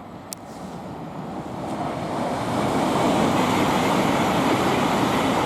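Class 717 electric multiple unit running through non-stop on the fast line: wheel and rail noise builds over about three seconds as it approaches, then holds at a steady rush as it passes.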